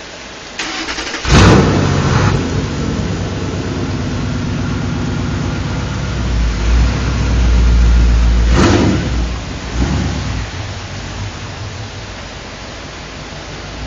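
Straight-piped 2006 Ford Mustang GT 4.6-litre V8, through JBA longtube headers and SLP Loudmouth mufflers, cranking and firing up with a loud flare about a second in, then idling with a deep, uneven rumble. A brief sharp burst comes about two thirds of the way through, and the idle settles after it.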